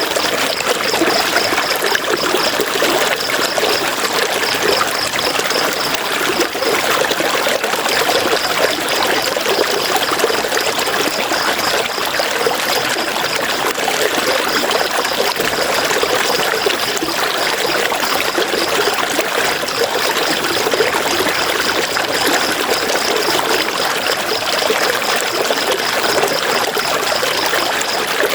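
River water running and splashing over rocks, a steady, even rush.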